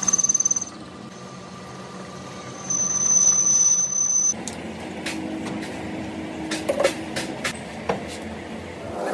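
Machine-shop sounds in several short cuts: a high whine, then a steady low machine hum with a few sharp clicks and knocks.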